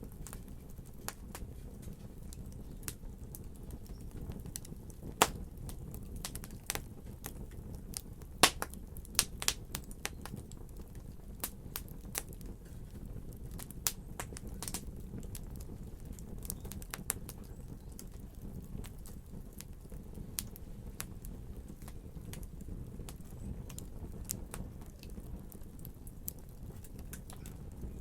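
Wood fire crackling in a fireplace: a steady low rumble of burning with scattered sharp pops and snaps, a few louder ones clustered in the first third.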